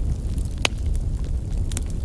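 Wood fire burning: a steady low rumble of flames with scattered sharp crackles and pops from the logs, one loud pop just under a second in and a few more near the end.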